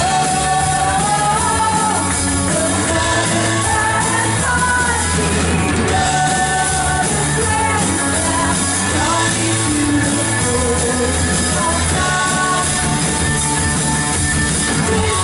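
A live worship band playing a rock-style song, with a lead singer carrying a melody over electric instruments, bass and drums at a steady, full level.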